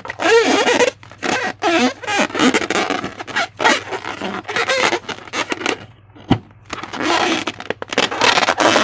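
Rubber balloons and slime being handled: a run of irregular squeaks and wet, sticky squelches, some of the squeaks wavering in pitch.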